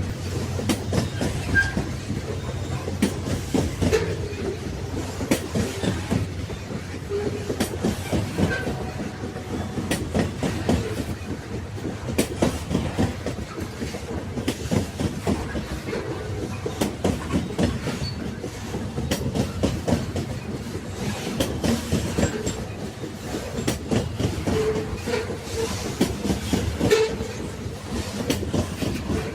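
Railway wagons rolling along the track: a continuous low rumble with frequent, irregular clacks and knocks of the wheels over the rails.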